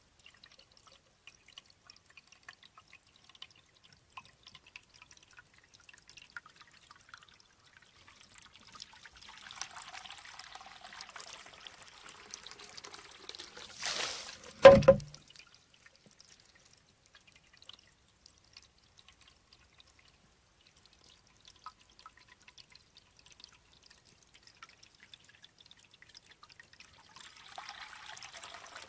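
Shishi-odoshi bamboo water fountain: faint drips, then running water building up, and about halfway through a single sharp hollow knock as the tipping bamboo tube strikes its stone, the loudest sound. The water starts running again near the end.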